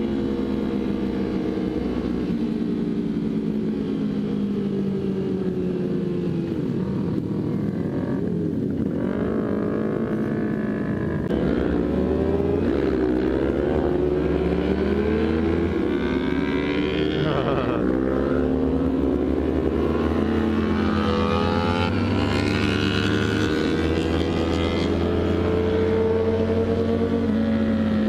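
Motorcycle engines on the move, heard from the saddle of a small Kawasaki Ninja sport bike: the engine notes rise and fall with the throttle, with other sport bikes' engines riding close by. The low engine tone steps to a new pitch several times.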